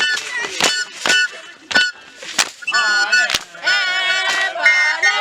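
Traditional dance group performing: sharp struck beats with a high piping tone over them, then from about three seconds in several voices singing in high, sliding pitches.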